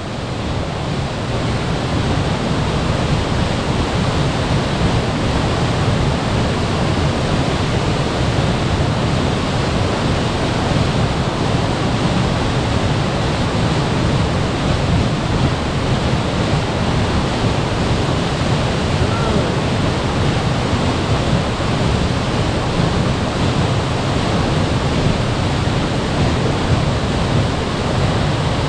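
Waterfall: a steady, full rush of falling water with a deep low rumble.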